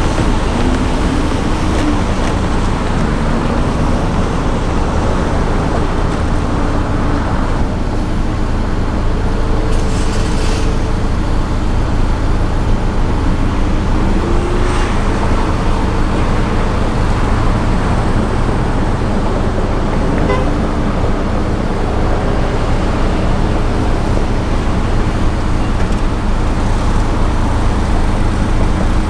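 Steady road traffic noise from a car on the move, with a few faint tones.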